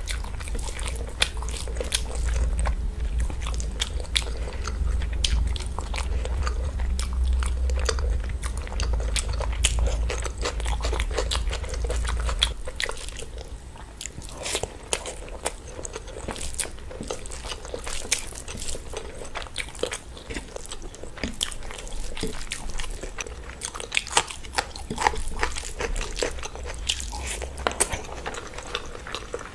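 Close-miked eating: wet chewing and mouth clicks from rice eaten by hand, with soft squishing as fingers mix rice on a steel plate. A low rumble underneath stops about twelve seconds in.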